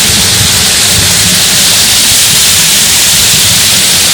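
Waterfall cascades rushing steadily: a loud, even hiss of falling water with a low rumble underneath.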